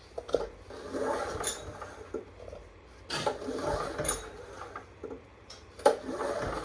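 Honda EM3000 generator's recoil starter being pulled three times, each pull a short whir of the rope with the engine turning over but not firing.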